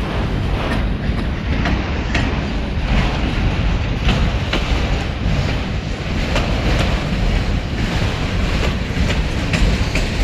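Long freight train rolling past: a steady rumble of railcars with frequent, irregular clacks of wheels striking the rail joints.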